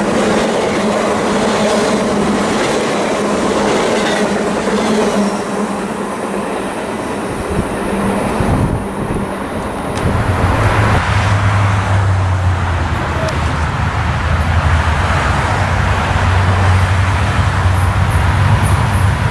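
Freight train cars rolling past, with steady wheel-on-rail rumble and clatter. About ten seconds in, this cuts to a steady low drone.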